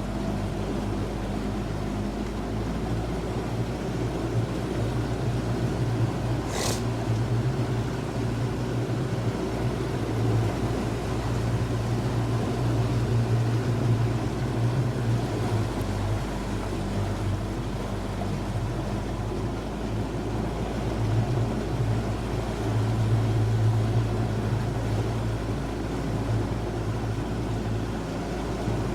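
Boat motor running steadily, a low drone with water and wind noise over it, and one brief click about six seconds in.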